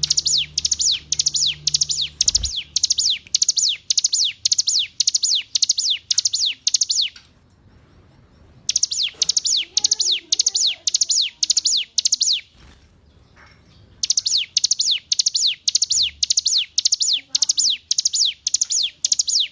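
Ciblek gunung (mountain prinia) singing: a fast string of high, downward-sweeping notes, about three a second, in three runs broken by short pauses of roughly a second and a half, near eight seconds and near thirteen seconds.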